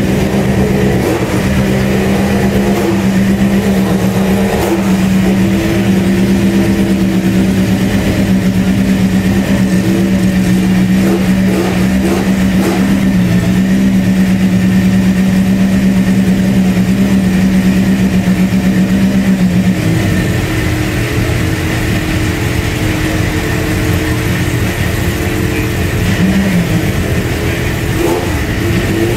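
Group B rally car engines running steadily while warming up, with a held, even engine note. About two-thirds of the way through, that steady note drops out and a rougher engine sound carries on, with a brief blip of revs near the end.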